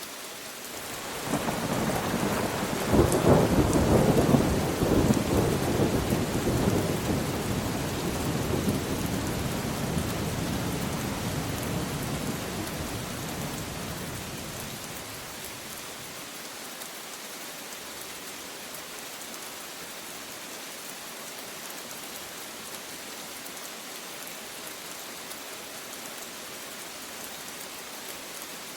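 Steady rain falling, with a rumble of thunder that swells about a second in, is loudest a few seconds later, and rolls away over the next ten seconds, leaving only the rain.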